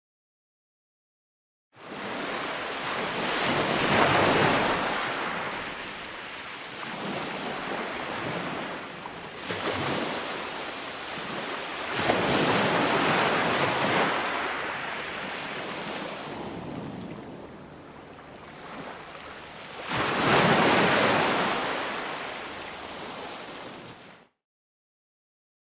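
Ocean surf: waves breaking and washing in, swelling to a peak about every eight seconds, with wind noise on the microphone. The sound cuts to dead silence for a second or two at the start and again near the end.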